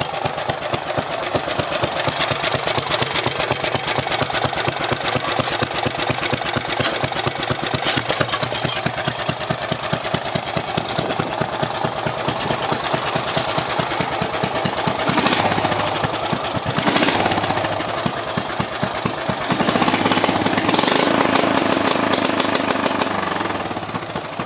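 Craftsman's 12 hp Briggs & Stratton single-cylinder engine running hard against a spark-cut rev limiter, firing in a rapid, irregular, spluttery stutter. Around fifteen seconds in, and again around twenty, it runs louder and more evenly for a few seconds before going back to stuttering.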